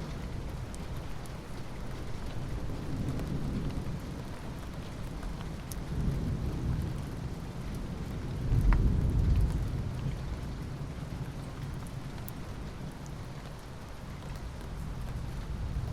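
Steady rain falling, with scattered drop ticks, under low rolling thunder that swells several times and rumbles loudest about halfway through.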